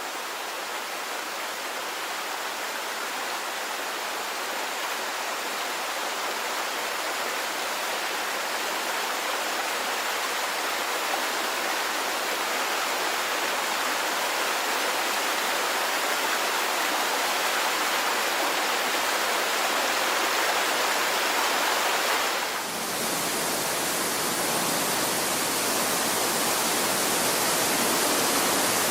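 Steady rushing water, an even noise without distinct events. About three-quarters of the way through it changes abruptly to a brighter, hissier rush with more low rumble.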